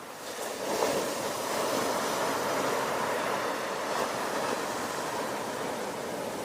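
Ocean surf: a wave breaks just under a second in and its wash runs on as a steady rushing noise.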